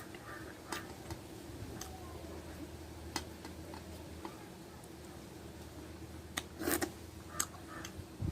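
Close-miked eating sounds: scattered wet clicks and smacks of chewing rice and dried fish, with a louder flurry about six and a half seconds in, over a steady low hum.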